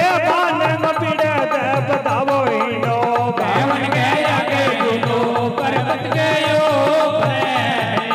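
Devotional bhajan music: a wavering, ornamented melody over a steady, evenly repeating hand-drum beat.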